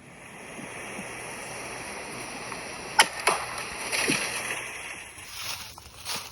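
Steady hiss of wind buffeting the microphone, with one sharp crack about three seconds in followed by a smaller click and a dull thump.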